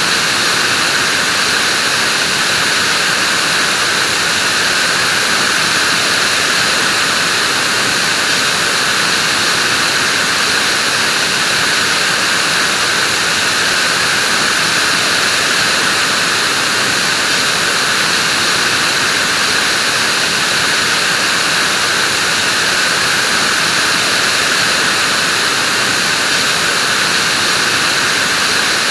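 Vacuum cleaner running steadily: an even noise that holds the same pitch and level throughout.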